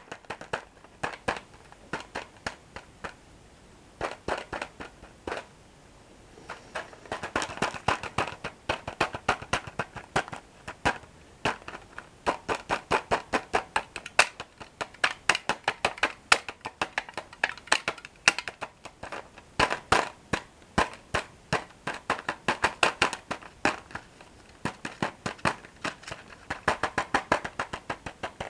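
Close-miked chewing of crunchy toasted breadsticks dipped in cocoa cream. Scattered sharp crunches and mouth clicks at first, then from about a quarter of the way in a steady run of crisp, rapid crunching bites.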